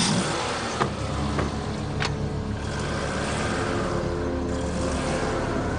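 Car engine running steadily, with two sharp knocks in the first two seconds.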